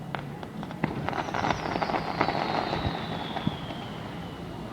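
Fireworks going off: a rapid run of crackling pops, densest a second or two in, with a high whistle sliding slowly down in pitch through it.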